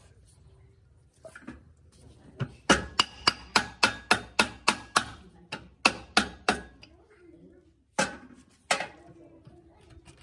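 A quick run of sharp knocks, about four or five a second, followed by a few more spaced knocks and two single louder ones near the end.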